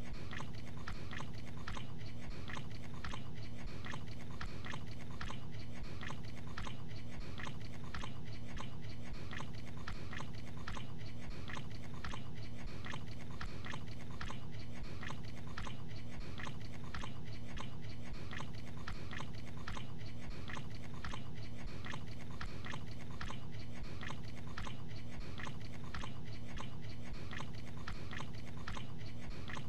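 A man chewing a mouthful of gabagool (capicola), one chew after another in a steady, even rhythm of a little under two chews a second, over a steady low hum.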